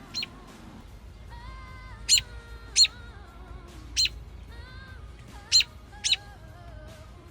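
A robin gives sharp, loud single-note calls, six of them about a second apart: the alarm calls of a parent bird worried about its nearby fledgling.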